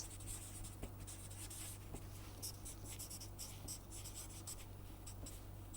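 A pen writing: quick, faint scratching strokes, over a steady low hum.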